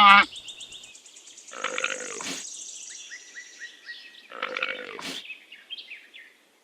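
Llama giving two short, rough vocal calls about three seconds apart, with faint high chirping in the background.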